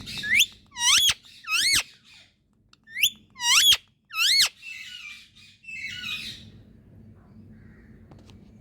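Indian ringneck parakeet calling: six loud, high-pitched screeches, each rising sharply in pitch, in two bursts of three, followed by a few softer chattering notes.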